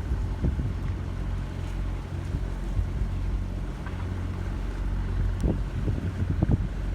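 Tugboat diesel engine running at idle in forward gear while towing a loaded barge: a steady low drone. A few short low thumps come near the end.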